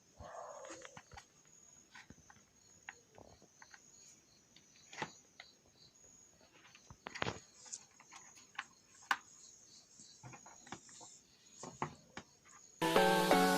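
Scattered light clicks and knocks of an electric kettle's base cover being handled and closed up after the repair. Music starts just before the end.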